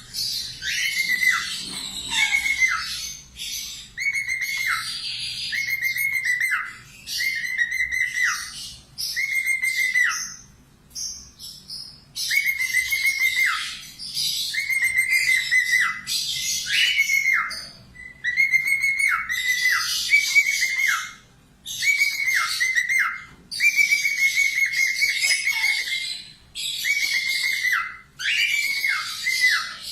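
Falk parakeet (budgerigar) singing vigorously: repeated phrases of a held whistle that drops at the end, mixed with scratchy chattering, with brief pauses between phrases.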